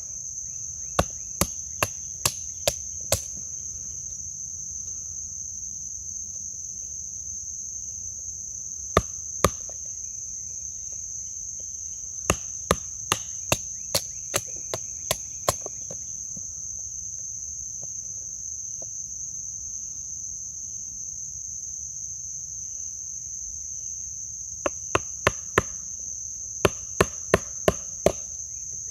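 Batoning a thin 3/32-inch Adventure Sworn Voyager knife into a knotty piece of wood: the spine is struck in runs of sharp knocks, about two a second, four runs in all. A steady high insect drone runs underneath.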